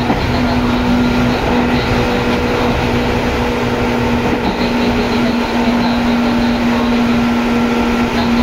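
Seibu 2057F commuter train running at a steady speed, heard from inside the car: a loud, even rumble of the ride with a constant hum from the drive.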